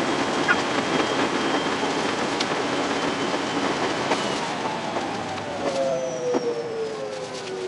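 Running noise of a 521-series electric train heard from behind the driver's cab, sped up sixfold so the wheel and track sound blurs into a dense, even hiss. A falling whine comes in over the last couple of seconds.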